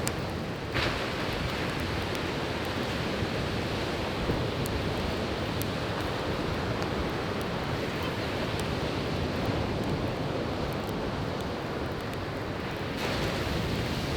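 Sea waves washing on the shore in a steady rush, with a wood campfire crackling in small, scattered sharp pops over it. A wave swells louder near the end.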